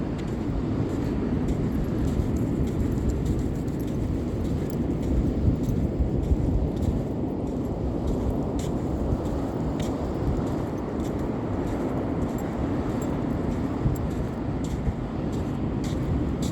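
Steady low rumble of wind on the microphone mixed with ocean surf, with faint scattered ticks.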